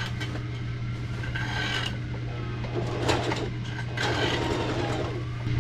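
A long metal bolt being sawn through by hand: uneven rasping strokes, roughly one a second, over a steady low hum.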